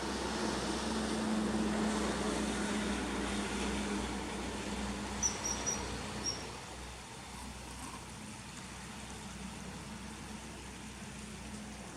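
Outdoor ambience dominated by a passing vehicle: a steady low hum and noise swell early, then fade away about halfway through. A few short high chirps from a small bird come around the middle.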